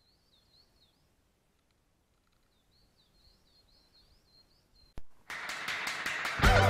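Faint songbird singing in quick runs of chirping notes over quiet outdoor background. About five seconds in, a click, then guitar rock music starts and gets louder.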